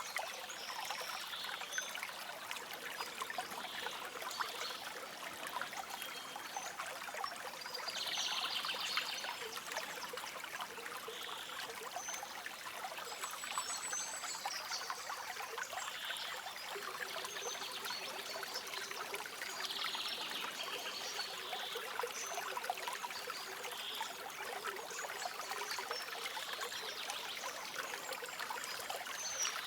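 Shallow stream water trickling and babbling over stones in a steady wash. Short high bird calls come every couple of seconds above the water.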